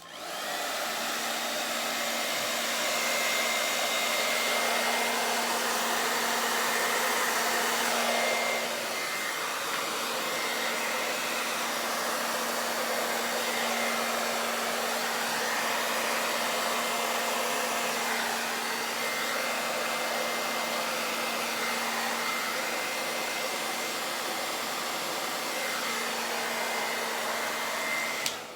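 Hair dryer running steadily, blowing fluid acrylic paint across a canvas in a Dutch pour. It switches on at the start, drops slightly in level about a third of the way in, and cuts off near the end.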